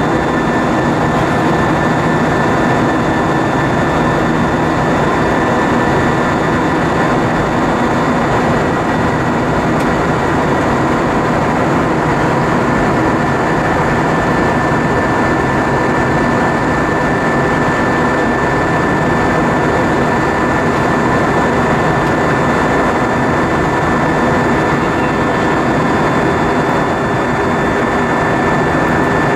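Steady cabin noise of an Airbus A320-232 with its IAE V2500 engines running: an even rush of engine and airflow noise with a thin, constant high whine over it, unchanging throughout.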